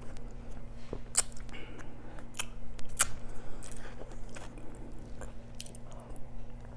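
Close-miked eating: biting and chewing, with sharp wet mouth clicks, the loudest about a second in and again between two and three seconds in.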